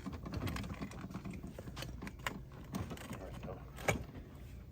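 Irregular small clicks, taps and knocks of things being handled and shifted around while rummaging, with one sharper knock about four seconds in.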